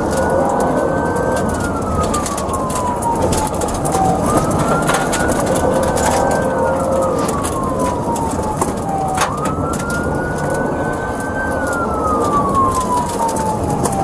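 Police car siren on a slow wail, climbing quickly and sliding down, about every five seconds, over heavy road and engine noise from a high-speed pursuit.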